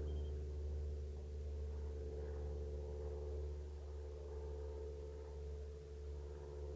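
Luscombe light aircraft's piston engine running steadily at low power, a low drone with a hum of even tones, easing slightly in level.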